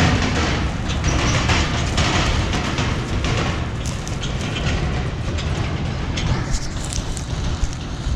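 A vehicle driving over rough ground: a steady low rumble with continual rattling and clattering.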